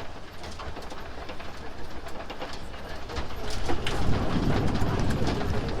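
Tour tram rolling along a canyon road: a steady rumble of motor and tyres with scattered rattles and clicks, louder from about four seconds in.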